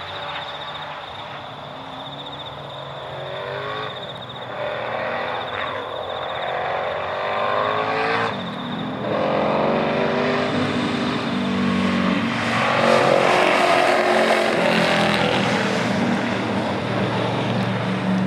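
Mercedes W126 500SEC widebody race car's engine under hard acceleration, rising in pitch again and again and dropping back between gears, louder in the second half.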